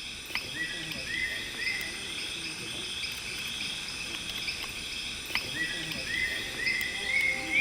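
Rainforest night ambience: a steady chorus of insects droning, with an unseen animal calling in short rising notes, about three a second, in a run of three early on and another run of four or five near the end.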